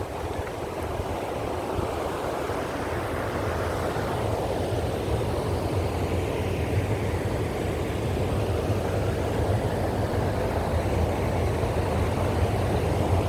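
A car driving: steady road and engine rumble with a constant low hum, the tyre rush swelling slowly.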